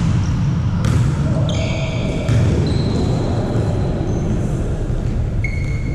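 Indoor volleyball play: the ball hit sharply a few times in the first half, and high squeaks like shoes on the court floor. A steady rumble of gym and crowd noise runs underneath.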